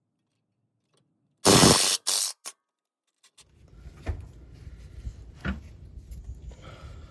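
Cordless impact wrench on a 17 mm socket with a swivel and extension, hammering at a steering rack mounting bolt: one longer burst about a second and a half in, then two short bursts. After that come faint clinks of tools being handled over a low rumble.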